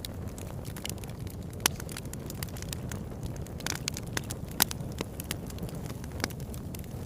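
Wood fire burning in a fireplace: a steady low rush of flames with sharp crackles and pops at uneven intervals. The loudest pops come about one and a half seconds in and just past the middle.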